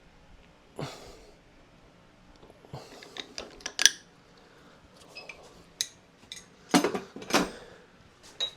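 Metal tools and parts being handled, with a series of irregular sharp clinks and knocks of steel on steel, loudest about four and seven seconds in.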